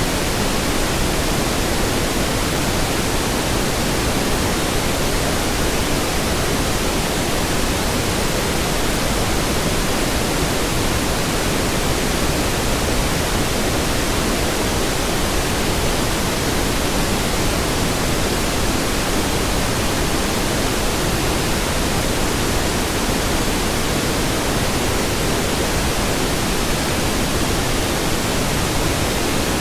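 Steady pink noise: an even, unchanging hiss-like rush spread across all pitches, fuller in the low end than white noise.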